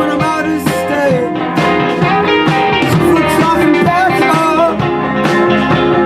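A live rock band playing an instrumental passage: guitar lines that bend in pitch over a steady drum beat.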